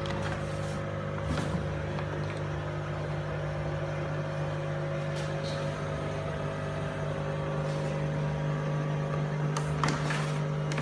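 AEG front-loading washing machine running, its motor giving a steady, even hum. A few short clicks or knocks come through, most clearly near the end.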